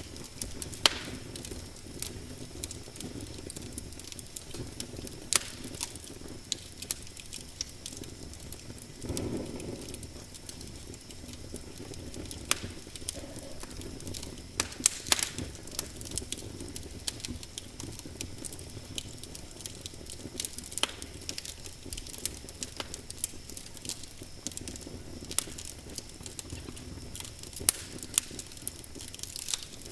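Wood fire crackling in a fireplace: irregular sharp pops and snaps over the steady low sound of the burning, with a short swell of lower sound about nine seconds in.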